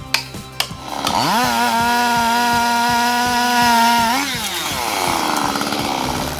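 Chainsaw revving up, held at a high steady speed for about three seconds, then dropping back down. A few sharp knocks come before it, in the first second.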